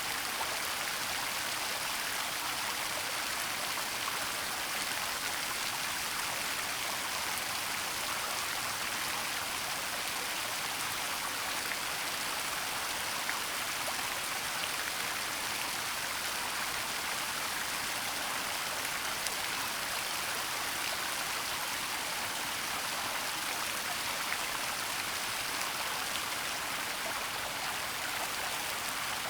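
Steady rush of a waterfall and its falling water, an even hiss with no breaks.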